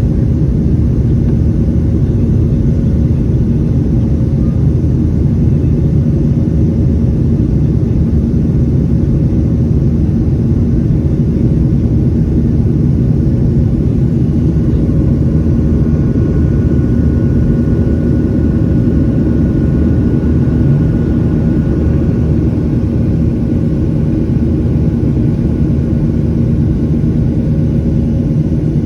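Boeing 737-800's CFM56 turbofan engines and airflow: a steady, loud rumble that does not change. A faint high whine joins about halfway through.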